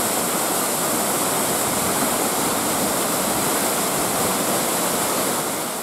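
Waterfall rushing: a steady, dense roar of falling water that eases off slightly near the end.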